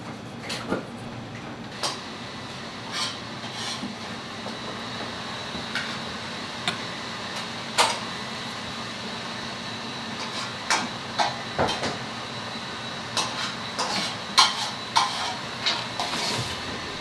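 Kitchen prep sounds: scattered knocks and clinks of utensils, pans and dishes, more frequent in the second half, over a steady hum with a faint high tone.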